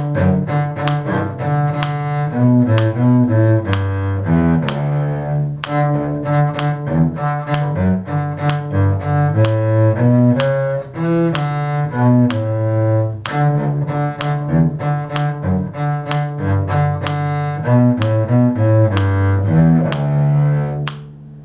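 A low-pitched bowed string instrument playing a steady run of notes of a simple tune, the melody line of a beginners' piece, ending just before the close.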